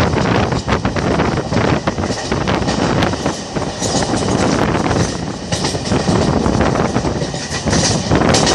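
Indian Railways passenger coach running at speed: a steady rumble of steel wheels on the rails, broken by frequent sharp clacks.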